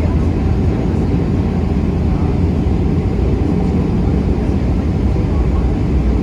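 Boeing 737-400 CFM56-3 jet engines and airflow, heard inside the passenger cabin as a steady low roar.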